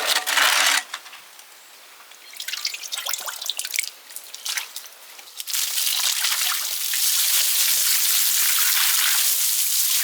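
Water from an emptied stone trough splashing and dripping in a few irregular bursts, then running steadily into a gully and drain from about halfway in.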